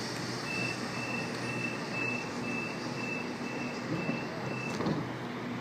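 Door-closing warning on a Sydney Waratah (A-set) train: a row of about nine short high beeps, two a second, over the steady hum of the train standing at the platform.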